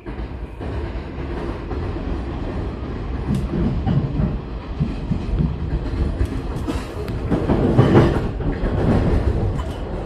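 Yamanote Line electric commuter train running on the rails: a steady rumble with scattered sharp clacks of the wheels over the track, growing louder about three-quarters of the way through.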